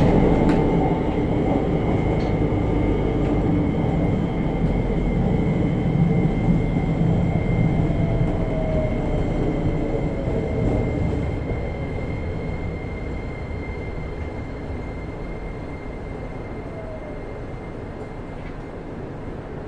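JR Kyushu 303 series electric train, heard from above a motor bogie, slowing down. The rumble of wheels and traction motors dies away steadily, with a brief falling whine midway. The car is one whose motors give a growl and heavy vibration as they turn.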